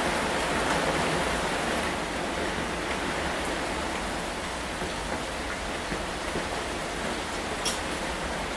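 Steady rain falling, with a few separate drip ticks, one clearer near the end; a little heavier in the first couple of seconds.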